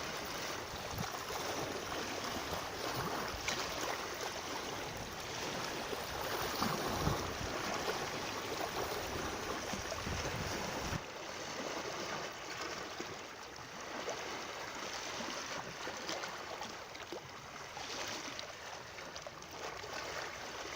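Running water, a steady rushing hiss without tones, that drops a little in level about eleven seconds in.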